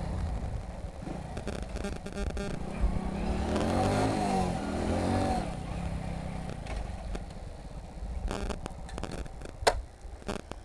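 Motorcycle engine running at low speed on the move, its pitch rising and falling around the middle.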